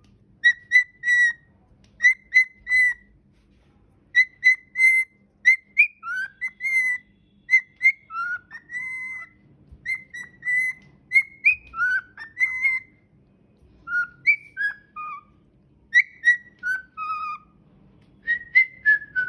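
Cockatiel whistling its song: phrases of short, clear whistled notes mostly on one pitch, some sliding downward, with brief pauses between phrases.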